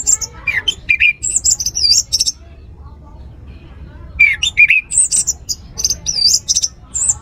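Orange-headed thrush singing: two rapid phrases of high whistles and sweeping, looping notes, with a pause of about two seconds between them.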